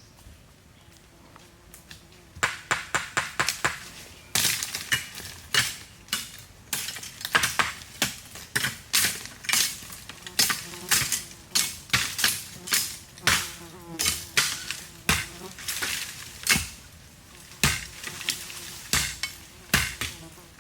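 Hand tool striking or scraping material over and over: a quick run of strikes about two seconds in, then steady strokes about two a second.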